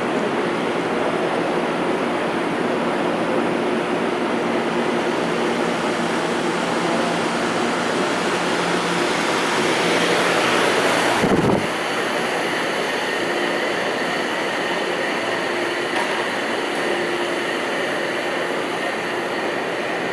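Steady subway rumble with a low hum running through it. It swells about ten seconds in, then drops off suddenly.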